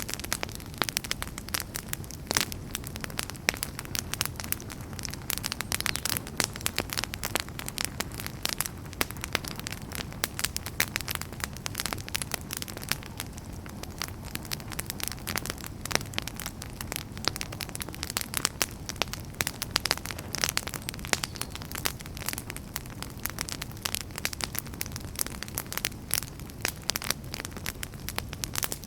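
Wood fire burning in a fireplace, with many sharp crackles and pops scattered irregularly over a steady low rumble of flame.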